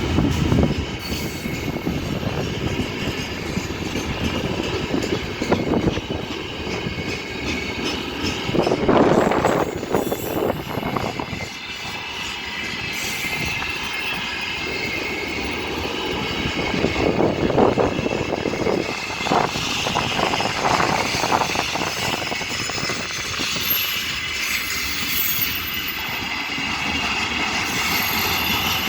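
Loaded freight wagons of a long mixed freight train rolling past, with wheels rumbling and clattering over the rails, surging louder at times, and a faint metallic wheel squeal.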